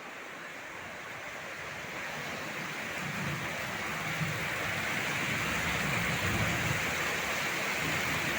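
Heavy rain falling in a steady hiss that grows louder over the first few seconds, with a low rumble underneath in the middle.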